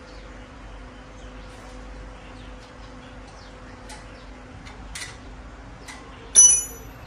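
Scattered light clicks of metal parts being handled, then one sharp metallic clink about six seconds in that rings briefly at a high pitch, over a faint steady hum.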